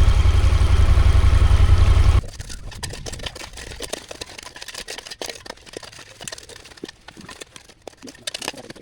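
A vehicle engine idles with a low, steady rumble that cuts off suddenly about two seconds in. Then comes a quieter stretch of irregular sharp ticks from raindrops striking close by in heavy rain.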